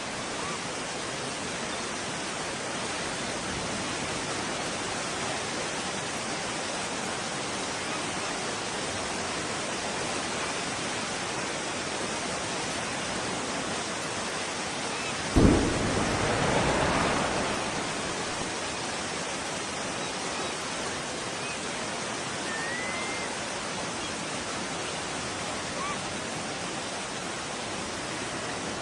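Underwater bomb explosion: a single sharp boom about halfway through, then a rushing rumble that fades over about two seconds. A steady noise like surf or wind runs underneath.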